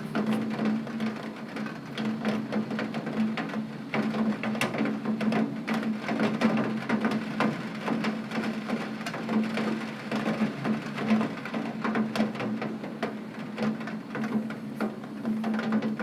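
Heavy rain on a window pane: a dense, continuous stream of individual drops tapping on the glass, over a steady low hum.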